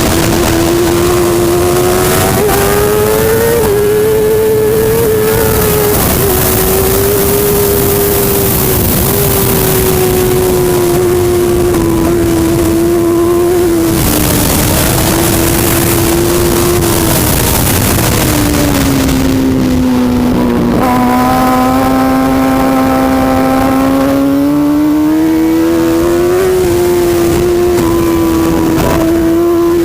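Superbike racing motorcycle engine running hard without a break, its pitch wavering with the throttle. Near two-thirds of the way through the pitch drops, then climbs steadily back up, under a constant high rushing hiss.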